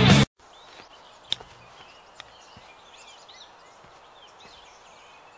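Birds chirping over a quiet outdoor background hiss, with two faint clicks about a second and two seconds in. Loud music cuts off abruptly right at the start.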